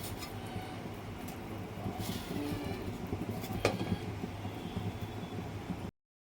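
Kofta curry gravy simmering in a pan on a gas stove, a steady low rumble with bubbling, and a spoon clinking against the pan twice. The sound cuts off abruptly near the end.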